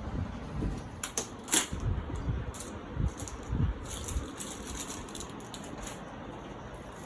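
Handling noise: a few sharp clicks and knocks, the loudest about one and a half seconds in, and several dull low thumps, as the air conditioner unit and its packaging are moved about.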